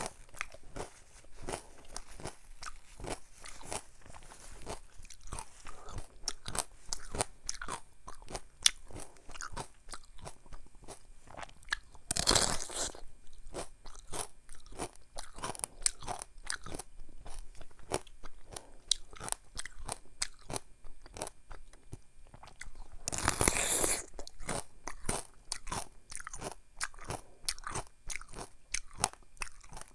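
Close-up crunchy biting and chewing of a mini Korean melon (chamoe), with many small wet clicks and two louder, longer sounds about twelve and twenty-three seconds in.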